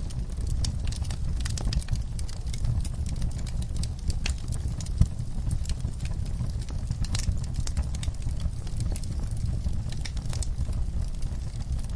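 Wood fire crackling in a fireplace: a steady low rumble of burning logs under frequent, irregular sharp pops and snaps, the sharpest about five seconds in.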